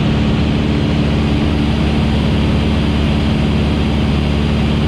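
Van's RV-8's piston engine and propeller droning steadily at reduced pattern power, under a steady hiss.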